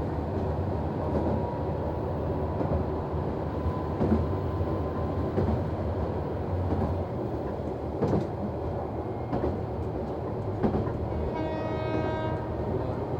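Noto Railway NT100 diesel railcar running along the line, heard from the driver's cab: a steady low engine and wheel rumble with a few single clicks as the wheels cross rail joints. A short horn note sounds about eleven seconds in, lasting just over a second.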